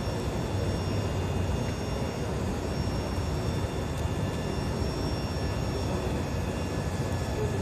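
Asagiri engine running steadily on a test run, a constant drone with faint high whining tones held throughout.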